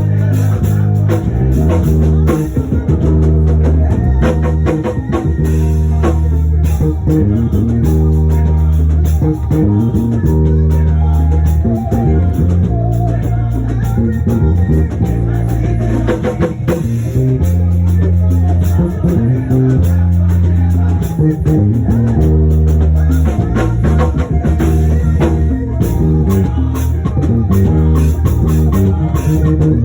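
Instrumental band music: a bass guitar holds long low notes that change every second or two under a drum kit and guitar.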